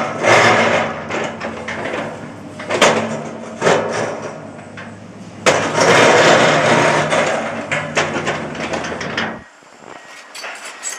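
Komatsu PC210 hydraulic excavator's diesel engine running under load, with repeated surges of loud noise and several sharp knocks as the machine works at paving slabs. The engine sound cuts off abruptly near the end, leaving a few faint clicks.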